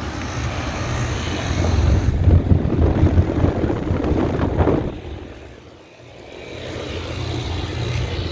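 Outdoor air-conditioner condenser units running: a steady low hum with the rush of the condenser fan. It grows louder through the middle, drops away briefly about six seconds in, then returns.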